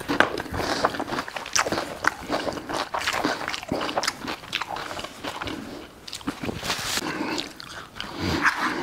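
A person eating close to the microphone: repeated crisp crunching bites and wet chewing.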